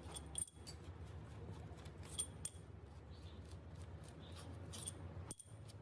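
Light metallic clicks and clinks of hand tools and small engine parts being handled, over a low steady hum.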